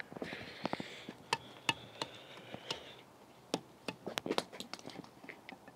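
A series of irregular light clicks and taps, like small hard objects being handled or knocked together, with a faint hiss under the first half.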